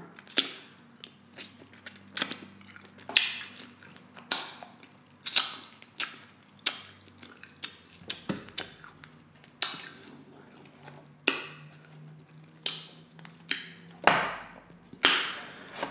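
Close-miked chewing and wet mouth smacks from eating saucy glazed pork ribs: sharp, irregular smacks roughly once a second. Near the end comes a longer, sticky sound.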